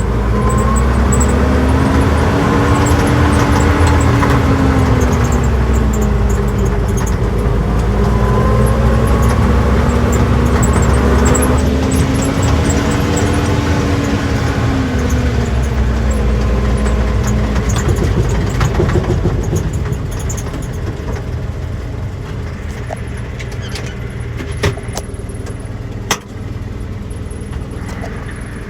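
1948 Willys pickup's Go Devil L134 flathead four-cylinder engine pulling on the road, its pitch rising and falling twice as it runs through the gears. It then eases off and runs quieter, with a couple of sharp clicks near the end.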